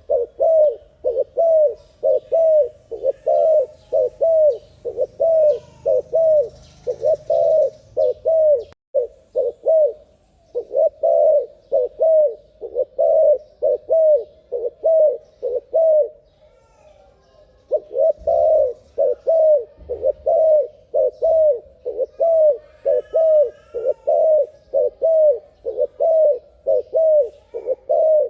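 Spotted dove coos, sped up, repeated about twice a second in long runs with a short break about nine seconds in and a longer one around sixteen seconds. Faint higher bird chirps come in briefly past twenty seconds.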